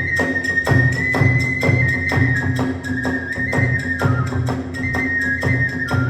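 Kagura hayashi ensemble: a bamboo transverse flute plays a held melody that steps slowly up and down, over quick, even strikes of drum and small hand cymbals, about four a second, with deeper drum beats among them.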